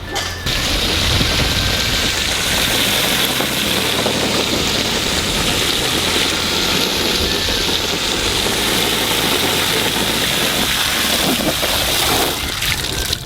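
Water from a garden hose running into a plastic puppy pool: a steady, loud hiss that starts suddenly about half a second in and stops about a second before the end.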